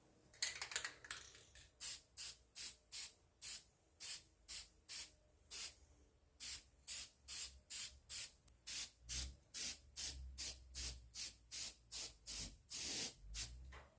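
Lacquer sprayed in many short hissing bursts, about two or three a second, with one longer burst near the end: a finish coat being sprayed on.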